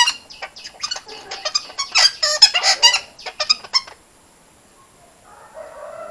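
Red-breasted parakeets squawking: a rapid run of loud, harsh calls that stops about four seconds in. Near the end, a softer, lower sound with a gliding pitch begins.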